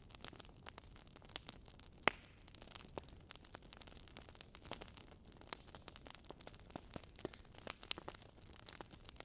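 Fire crackling in a fireplace: irregular sharp pops and snaps over a faint hiss, with one louder pop about two seconds in.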